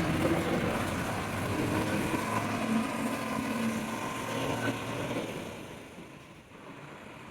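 Truck engine running, a steady rumble that drops away noticeably about five to six seconds in.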